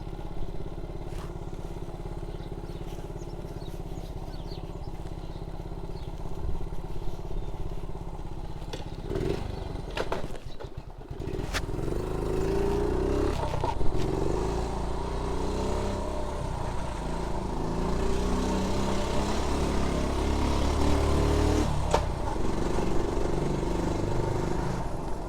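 Engine of a 1976 Honda Z50J1 monkey bike, a small four-stroke single, idling steadily for about nine seconds. After a brief dip and a few knocks it pulls away, its revs rising and falling as it goes up through the semi-automatic gears.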